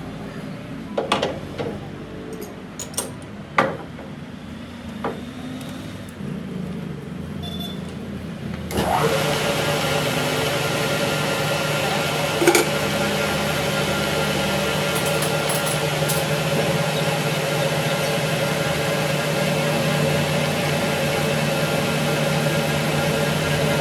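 Several separate metal knocks and clinks, then about nine seconds in a machine tool's electric motor starts and runs steadily with a constant hum and whine.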